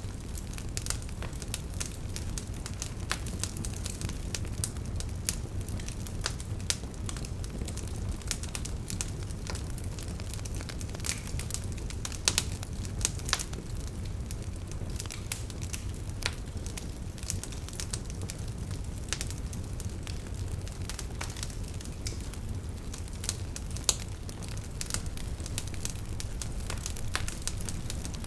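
Wood fire crackling, with irregular sharp pops and snaps over a steady low rumble; a few louder pops stand out, at the very start, around the middle and near the end.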